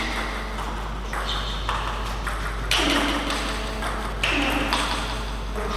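Table tennis ball being struck and bouncing during play, a sharp click about every second and a half with a short ringing tail.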